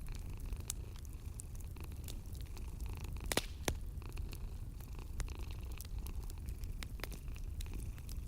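A cat purring, a continuous low rumble, over a wood fire crackling with scattered pops; two louder pops come about three and a half seconds in.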